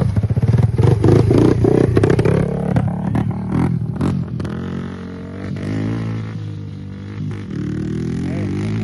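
Small pieced-together dirt bike engine revving for the first two or three seconds, then running lower and steadier.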